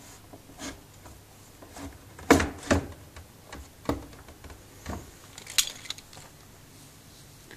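Laney LC30 amplifier chassis being slid into and handled in its cabinet: a series of irregular knocks, clicks and scrapes, the loudest two about two seconds in.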